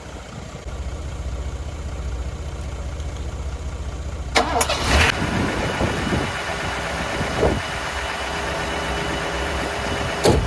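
1985 Mercedes-Benz W126 SEC's V8 engine cranking on the starter, then catching about four seconds in and settling into a steady idle. It starts right up now that the faulty fuel pumps have been replaced.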